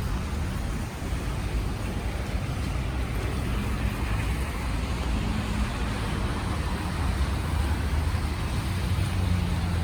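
Road traffic on a wet city street: vehicle engines rumbling low with a steady wash of tyre and rain noise.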